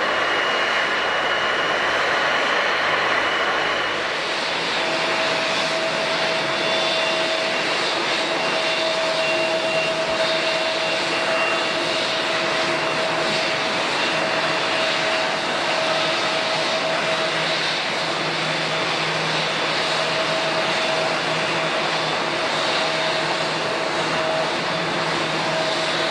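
Jet airliner engines running steadily, a continuous roar with a thin whine in it. The pitch of the whine shifts about four seconds in, and the loudness stays even throughout.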